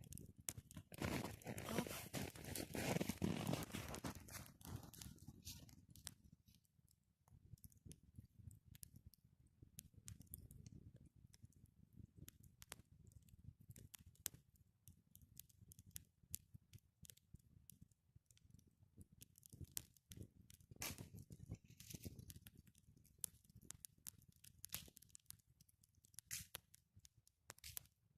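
A small campfire crackling faintly, with irregular sharp pops and snaps from the burning wood. A louder rustling sound fills the first few seconds, then fades.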